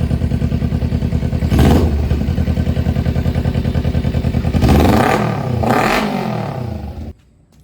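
Kawasaki Z250 motorcycle's parallel-twin engine idling with a steady pulse, blipped once about a second and a half in and revved up and down twice around five to six seconds in, then cutting off suddenly near the end.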